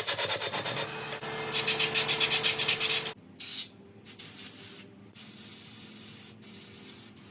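Aerosol cleaner sprayed into a lawnmower carburetor to flush debris from its fuel pickup: a loud spray with a fast sputtering pulse for about three seconds, then several quieter bursts of spray with short gaps between them.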